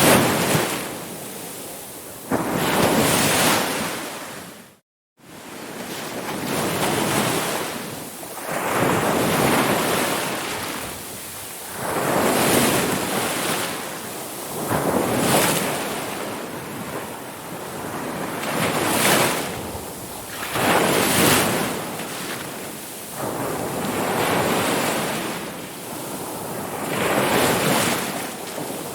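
Ocean waves rolling in and washing up the shore in a series of swells every few seconds. There is a brief cut to silence about five seconds in.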